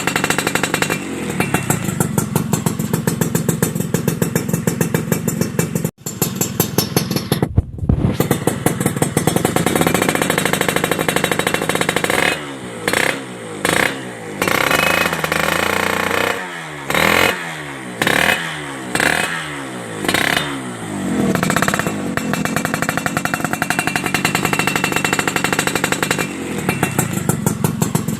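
Suzuki Satria motorcycle engine running through a WRS aftermarket exhaust: steady idle, then revved in a quick series of throttle blips around the middle, then settling back to idle.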